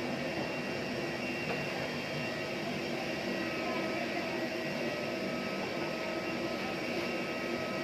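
Steady whine and rushing noise from a jet airliner on the ramp, a continuous turbine sound with several fixed high tones.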